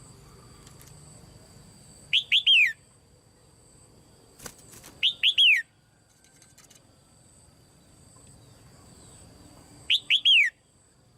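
Female red-whiskered bulbul calling three times, each a quick phrase of three or four falling whistled notes, about two, five and ten seconds in. A faint click comes just before the second phrase.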